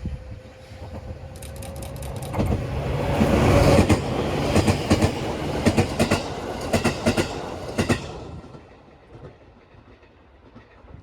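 A JR East 211 series electric train passes close by, its wheels clacking over the rail joints in quick groups. The sound builds to its loudest about four seconds in and fades after about eight seconds.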